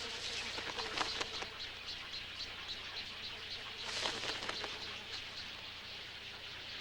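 Birds at a crowded waterbird nesting colony: a dense chatter of short calls and clicks, with louder flurries about a second in and about four seconds in.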